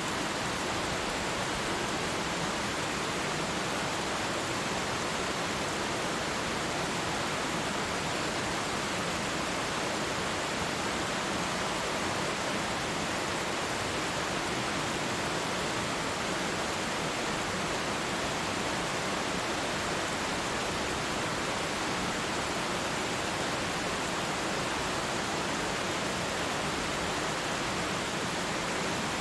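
Waterfall pouring: a steady, unchanging rush of falling water.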